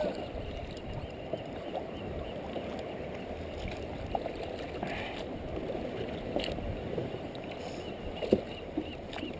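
Water sloshing and lapping around a kayak on the move, with a few faint small splashes in the second half.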